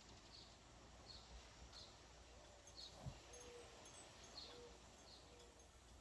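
Faint, quiet outdoor ambience: a bird chirping over and over, one short chirp about every three quarters of a second, over a low hiss of wind. A few faint low held tones sound in the middle, and there is a single knock about three seconds in.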